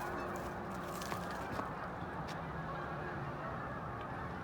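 A large flock of geese honking all at once, a steady din of many overlapping calls after being scattered from their field.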